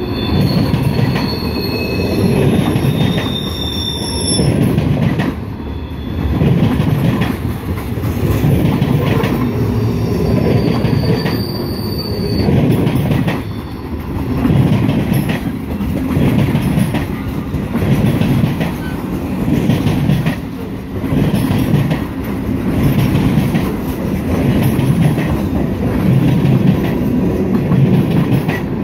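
Freight cars rolling past close by: a steady rumble of steel wheels on rail that swells and dips in a regular beat as each car's wheelsets go by. Brief high-pitched wheel squeals come through near the start and again about twelve seconds in.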